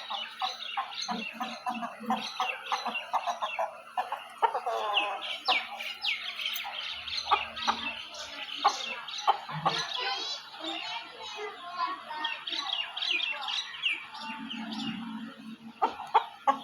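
Chickens clucking and chirping: a dense, continuous chatter of many short, high calls from several birds at once, with lower clucks mixed in.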